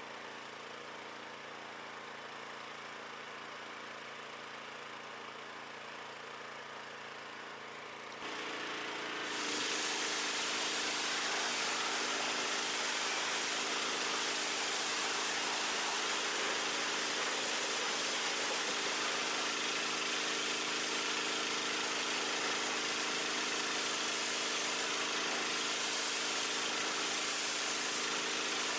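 Pressure washer running steadily. About eight seconds in its tone steps up, and the loud hiss of the spray starts and holds.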